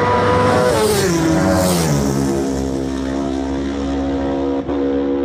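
A TT racing motorcycle passing at full speed, its engine note loud as it arrives, then dropping sharply in pitch as it goes by and holding a steady lower note as it pulls away.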